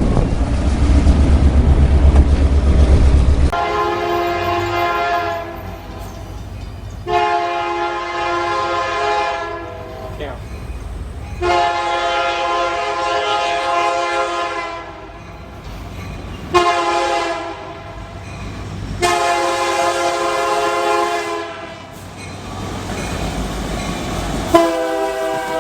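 A loud low rumble for the first few seconds, then a diesel locomotive's multi-tone air horn sounding a run of blasts for a grade crossing. The long blasts come with one short one between them, in the long–long–short–long pattern of the crossing signal.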